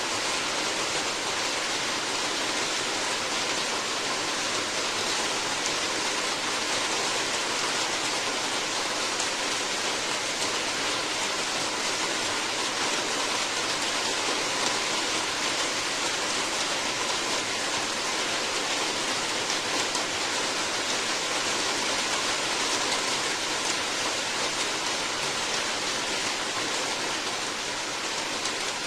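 Steady heavy rain falling, a dense even hiss of drops with no breaks.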